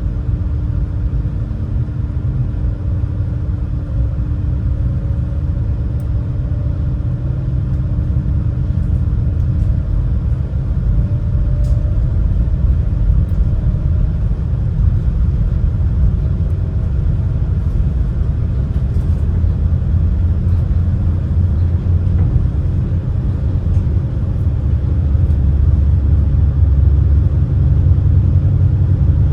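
Super Jet high-speed passenger boat under way: a steady low drone of its engines and water jets with a constant hum, growing slightly louder toward the end.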